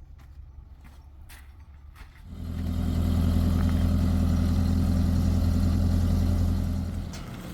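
A motor running steadily with a low, even hum, starting abruptly about two seconds in and stopping shortly before the end.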